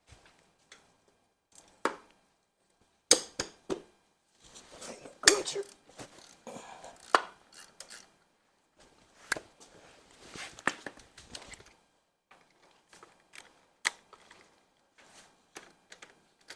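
Hand tools and metal engine parts clinking and knocking at irregular intervals during an engine teardown, a dozen or so sharp knocks with quiet gaps between.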